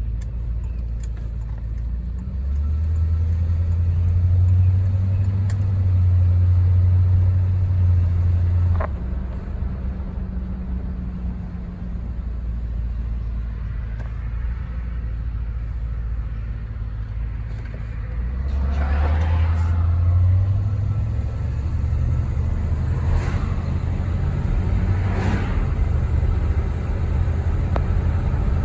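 Mark V car's engine running while driving, a steady low hum that pulls harder twice, from about two seconds in until nine seconds, and again from about eighteen seconds on.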